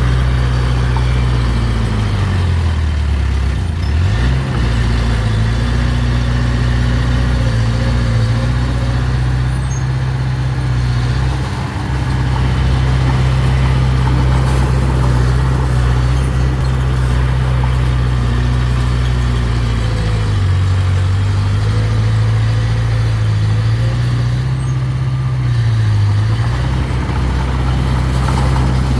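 Diesel engine of heavy earthmoving machinery running steadily. Its pitch sags and recovers a few seconds in and again about two-thirds of the way through.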